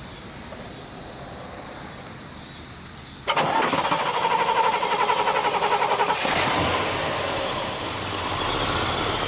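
A 1970 Chevelle SS's 454 LS5 big-block V8 being started. About three seconds in, the starter cranks it in a rhythmic pulsing of about four to five beats a second. About six seconds in, it catches and settles into a steady idle, already warmed up.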